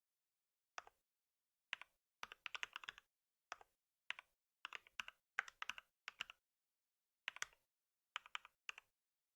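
Computer keyboard typing in short, irregular bursts of keystrokes, with brief pauses between the bursts.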